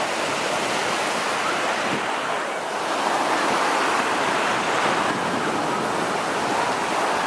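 Ocean waves washing around a person standing in shallow surf, with wind on the microphone.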